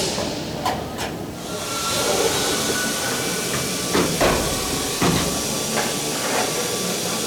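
Steady workshop hiss that drops away at the start and builds back up about a second and a half in, with scattered sharp clicks and knocks of hand tools on metal.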